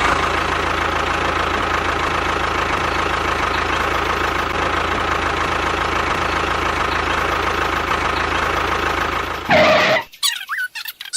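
A tractor engine running steadily at an even speed, cutting off suddenly after a short louder burst near the end.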